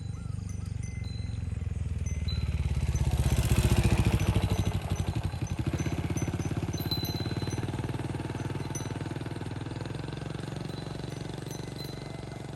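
A motorcycle engine approaching and passing, loudest about four seconds in, then slowly fading away.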